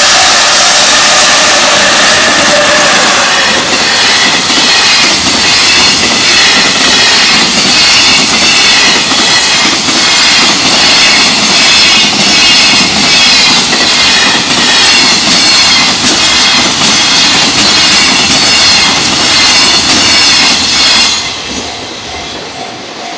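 Long freight train of tank wagons passing close at speed, its wheels loud and clattering over the rails. About 21 seconds in the train noise drops away suddenly as the last wagon clears, leaving the level-crossing warning bell ringing.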